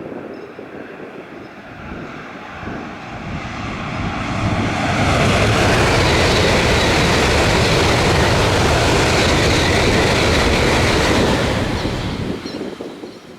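A Tokaido Shinkansen high-speed train passing at full speed. The rushing noise builds over a couple of seconds, holds loud and steady for about six seconds as the train goes by, then falls away quickly near the end.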